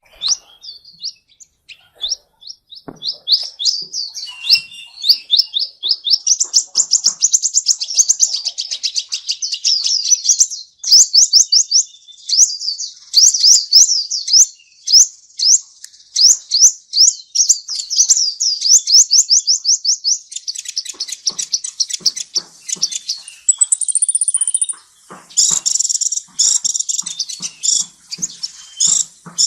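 A songbird singing long, fast runs of short sweeping chirps, about ten notes a second, with a brief higher whistle and buzzier notes near the end.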